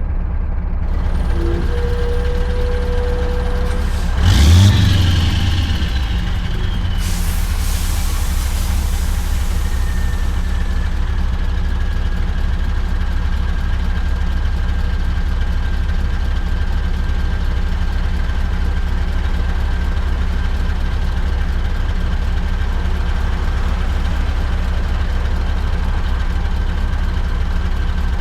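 Scania V8 truck engine running steadily with a low drone. About four seconds in there is a loud thump with a falling whine, and about seven seconds in a hiss of compressed air lasts a few seconds.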